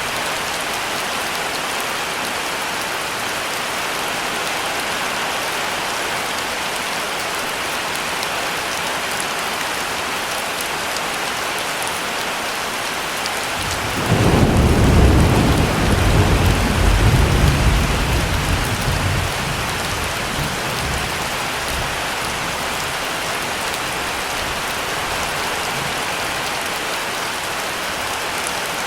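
Heavy rain falling steadily. About halfway through, a clap of thunder breaks in suddenly and rumbles for several seconds before fading back under the rain.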